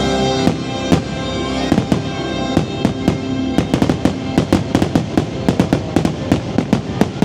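Fireworks finale: a rapid string of sharp bangs and pops, several a second, building from about a second and a half in, over the show's soundtrack music, which fades near the start.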